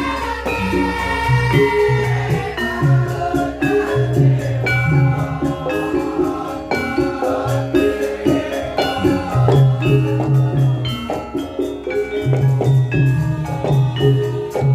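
Javanese gamelan music for a Lengger dance, a gending: tuned bronze metallophones and gongs ring in quick interlocking strikes over repeating low notes, with a singing voice.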